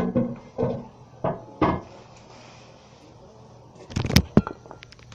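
Hard knocks and clatter of a porcelain toilet tank lid being lifted off and handled: four separate knocks in the first two seconds, then a quick run of sharp clicks and clunks from about four seconds in.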